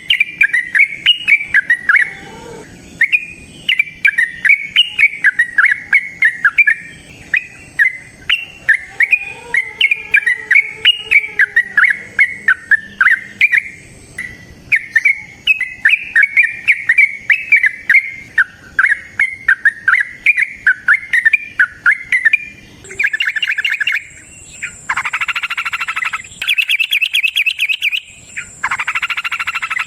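Yellow-vented bulbul (trucukan) singing a long, fast run of bubbly chirping notes, breaking into denser, harsher rattling phrases over the last several seconds. A faint steady high-pitched tone sits underneath.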